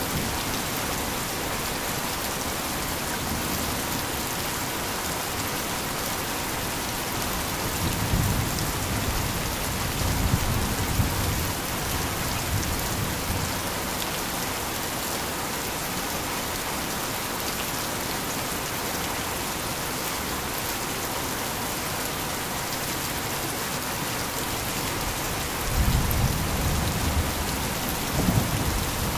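Heavy rain falling steadily, with a low rumble of thunder rolling twice: about a third of the way in, and again near the end.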